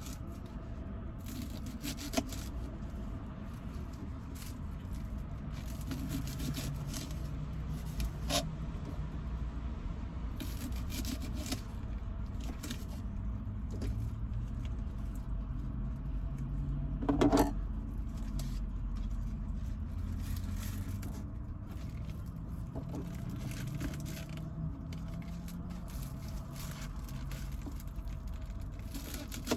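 A small kitchen knife chopping and slicing green onions: irregular knocks and short scraping runs, with a louder knock about 17 seconds in, over a steady low rumble.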